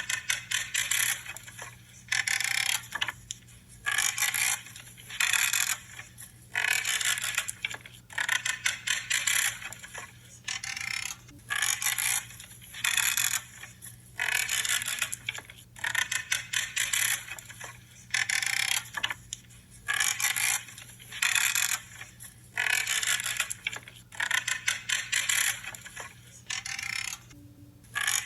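Branches being cut one after another, each cut a crunchy creak lasting under a second, repeating every second or so.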